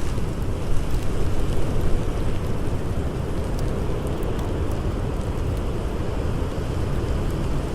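Blizzard wind blowing steadily, a deep, even rush, with faint small crackles from a wood fire scattered through it.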